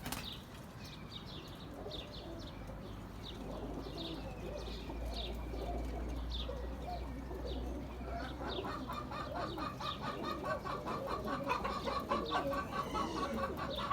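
Outdoor bird calls: short, high, falling chirps repeated throughout, over low pigeon cooing. From about eight seconds in, a fast, even rattling call joins in.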